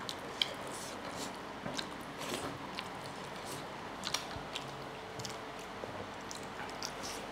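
Close-miked chewing and mouth sounds of people eating pork curry and rice by hand: a scatter of small, irregular wet clicks and smacks.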